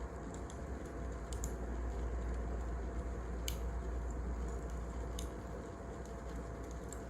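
Wood fire crackling: a steady hiss and low rumble with sparse, irregular sharp pops, the loudest about three and a half seconds in.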